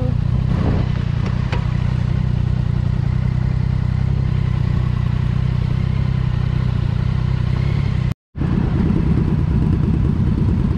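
Triumph Street Triple's three-cylinder engine idling steadily at a standstill. The sound cuts out completely for a moment about eight seconds in, then the engine sound resumes with a busier beat.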